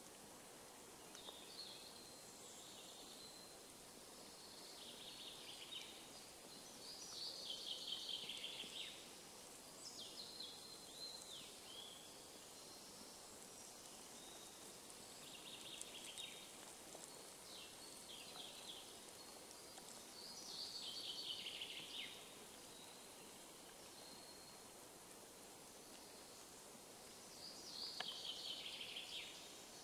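A songbird singing short, high phrases that fall in pitch, repeated every few seconds over a faint steady hiss of forest background.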